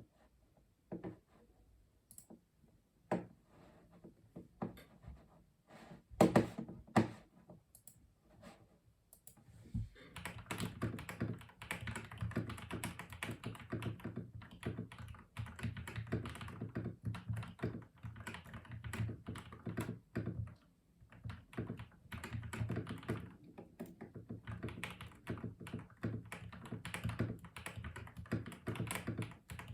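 Typing on a custom mechanical keyboard. For about the first ten seconds there are only scattered single keystrokes and a few louder thunks; then it turns to steady, fast typing.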